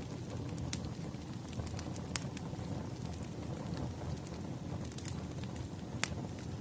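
Wood fire crackling: a steady low rumble of burning logs with scattered sharp pops, the loudest about a second in, about two seconds in and near the end.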